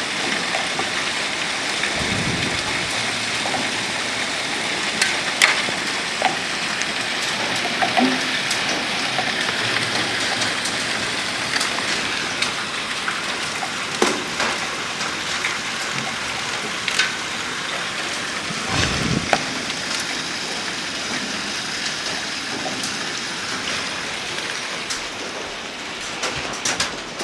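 Penny-sized hail pelting down: a dense, steady hiss broken by sharp cracks of single stones striking hard surfaces. Two short low rumbles come about two seconds in and again near the nineteen-second mark.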